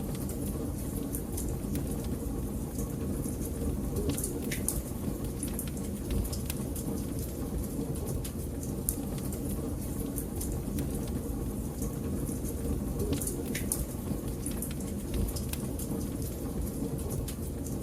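Wood fire burning in a fireplace: a steady low rumble with scattered crackles and pops, a few sharper snaps about four seconds in and again near thirteen seconds.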